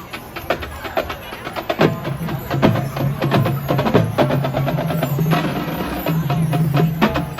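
High school marching band playing: quick sharp percussion clicks, joined about two seconds in by loud held low notes from the band.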